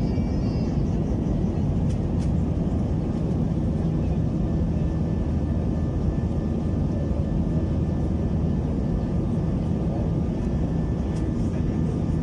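Steady cabin noise inside an Airbus A321-200 airliner: an even, low rumble of the jet engines and airflow, unchanging throughout.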